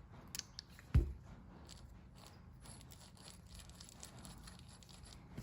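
Faint handling of small drill parts while grease is worked onto the gears, with scattered light ticks and one sharp knock about a second in.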